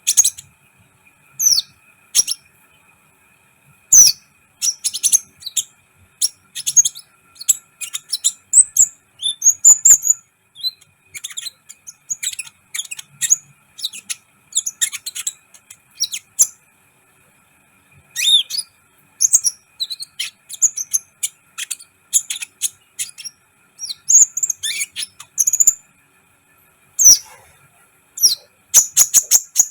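Sunbird (kolibri ninja) singing in rapid bursts of sharp, high chirps and twittering trills, with a couple of short pauses.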